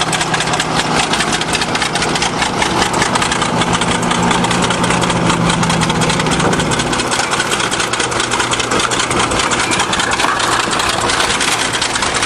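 A 20-ton bulldozer's diesel engine running at raised speed with a steady, rapid clatter; its low hum shifts about seven seconds in.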